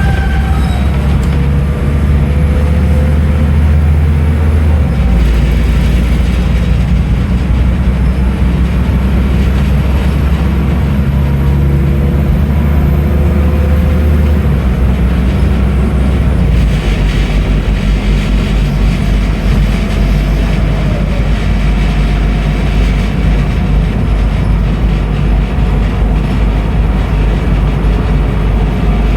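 Scania N310UA articulated city bus's diesel engine running under way: a loud low drone that steps in pitch a few times as the ZF Ecomat six-speed automatic gearbox changes gear.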